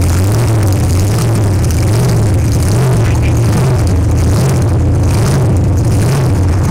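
Monster truck engine running loud, a heavy low drone that wavers slightly in pitch.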